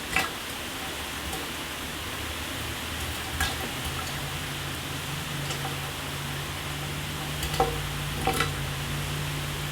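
Shower spray running steadily onto a surface, with a few short louder splashes just after the start, about three and a half seconds in, and twice near eight seconds. A low steady hum comes in about four seconds in.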